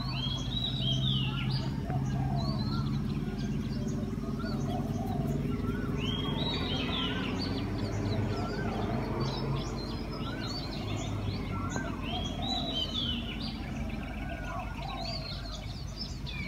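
Birds chirping and calling, with one bright call phrase repeating about every six seconds, over a steady low hum.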